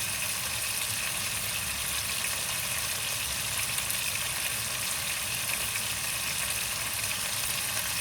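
Chicken pieces sizzling steadily in hot oil in a pan as they are fried with salt until golden.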